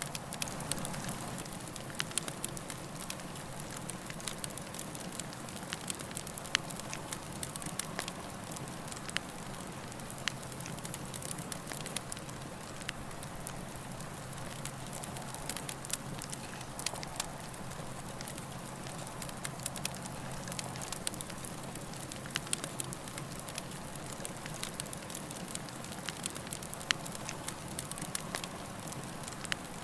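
Campfire burning: a steady hiss of flames with frequent, irregular sharp crackles and pops from the burning wood.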